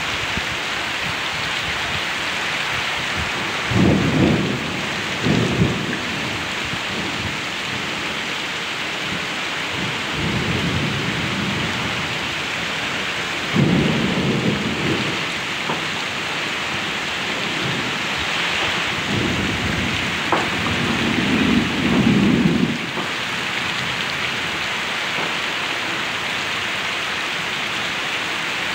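Heavy rain pouring steadily onto a paved road, mud and rocks, with low rumbles swelling up and dying away several times, the longest about two-thirds of the way in.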